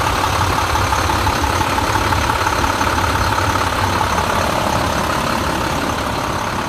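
2005 International CXT's DT466 inline-six diesel engine running steadily, easing off slightly near the end.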